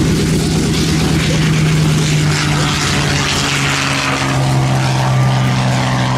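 Propeller airplane flying past, its engine and propeller drone steady and then dropping slightly in pitch about halfway through as it goes by.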